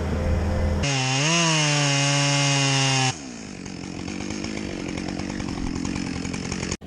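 A steady low engine drone gives way, about a second in, to a chainsaw running at high revs with a brief rise and fall in pitch. After about three seconds the saw drops to a quieter, rougher sound of the chain cutting through wood, which stops abruptly near the end.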